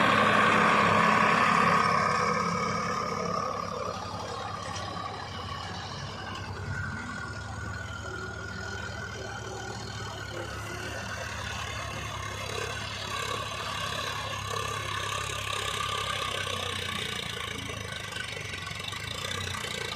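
Tractor diesel engine running steadily, louder for the first couple of seconds and then settling to a lower, even hum.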